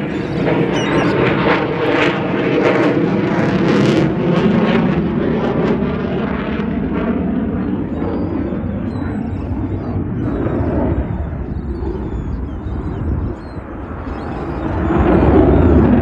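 Fighter jet flying past at an air show, loud in the first six seconds, easing off through the middle, then swelling again near the end as it comes round.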